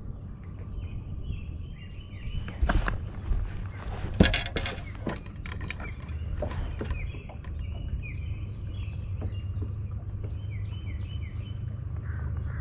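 Small birds chirping repeatedly over a low steady rumble, with a burst of sharp plastic clacks and rattles about three to five seconds in as a tackle box full of lures is opened on the boat deck.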